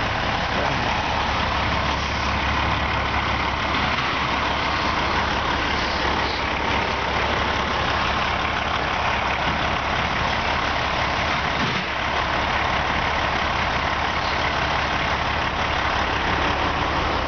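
A heavy diesel engine idling steadily, with a constant low rumble and no change in speed.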